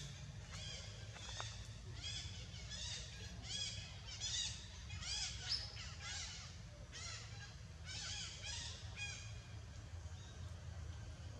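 A bird calling over and over, a short arched note about twice a second; the series stops about nine or ten seconds in. A steady low rumble runs underneath.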